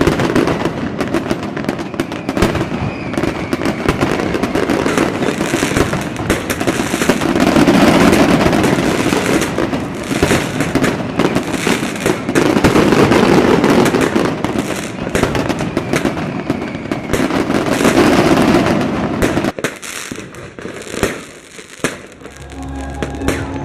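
Fireworks going off continuously: dense crackling with many sharp pops and three louder swells of bangs. Near the end the bursts thin out and music begins.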